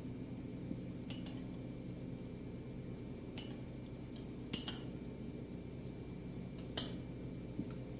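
Cutlery clinking against a dish about five times at irregular intervals, the loudest clinks midway and near the end, over a steady low hum.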